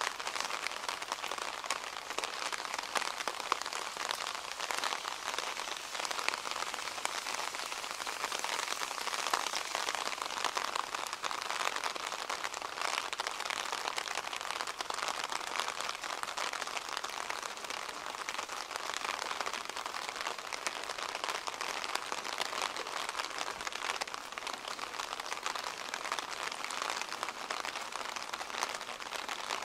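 Steady rain falling: an even, dense hiss of many small drops landing, with no let-up.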